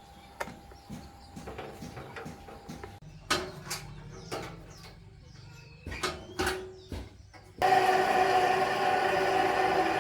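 Scattered clinks and knocks of work on metal parts, then about three-quarters of the way in a machine starts abruptly and runs loudly and steadily, with several held tones in its drone.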